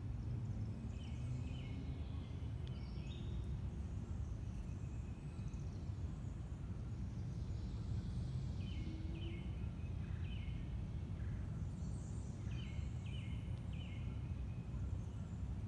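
Birds calling in short high notes, in runs of three or four that come back several times, over a steady low background rumble.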